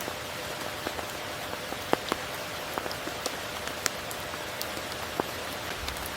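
Steady rain falling, a constant hiss with separate close drops ticking on surfaces; a few louder drop hits come about two seconds in and again near four seconds.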